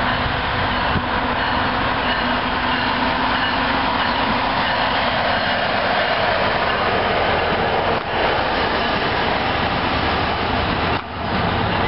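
Passenger commuter train passing close by: the steady rumble and rush of the cars rolling on the rails. The sound breaks off for a moment twice, about two-thirds of the way through and again near the end.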